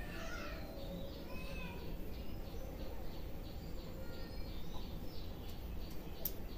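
Birds calling, with a quick cluster of chirps near the start and scattered shorter calls afterwards, over steady background noise.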